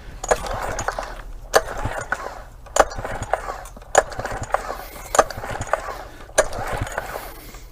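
Small one-cylinder Yamaha outboard being cranked by hand on its pull-start cord for a compression test: about six pulls roughly a second apart, each a sharp snap followed by the whirr of the engine turning over without firing.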